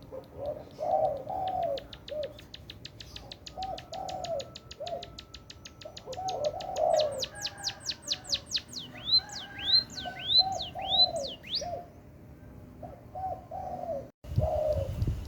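Emprit (munia) birdsong: a fast high trill of ticks builds into loud downward-sweeping whistles and then rising hooked notes, over repeated low calls. The recording cuts abruptly near the end into a louder low rumble.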